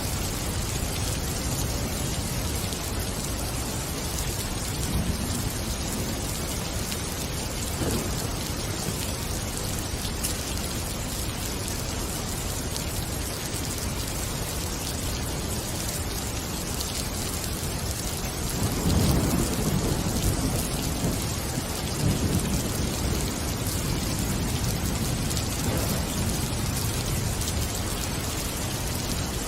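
Steady rain falling in a forest. About two-thirds of the way through, a low rumble of thunder swells up and fades.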